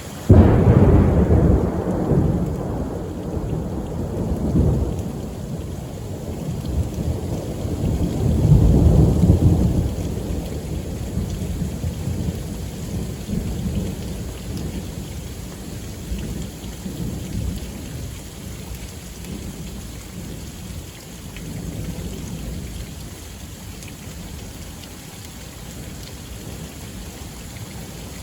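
Thunder: a sudden loud crack right at the start rolls into a long, deep rumble, swells again about eight seconds in, then slowly fades. Steady rain falls throughout.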